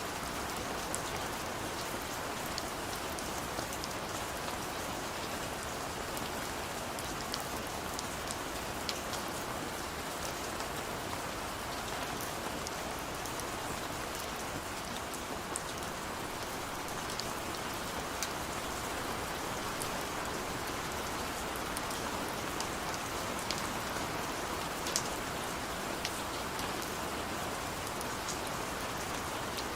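Steady rain falling, an even hiss with scattered sharper ticks of single drops striking a surface.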